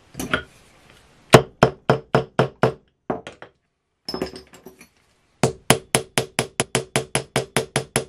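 Small hammer tapping a copper rivet on a steel anvil, peening the cut stem down to set it through leather. Short ringing metal strikes: a group of about six a second in, a few lighter taps, then a fast run of about six strikes a second near the end.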